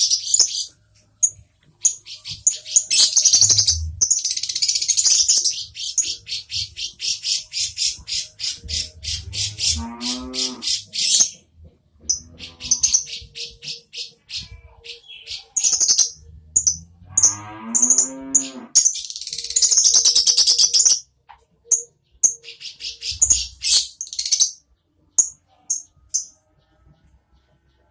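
Lovebirds chirping, with many high, sharp chirps coming in rapid runs. Two long, low, moo-like calls sound about ten and seventeen seconds in.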